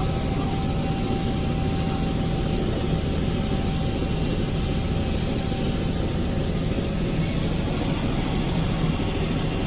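Helicopter in flight, heard from inside the cabin: a steady, unbroken drone of engine and rotor, with a thin steady whine over it.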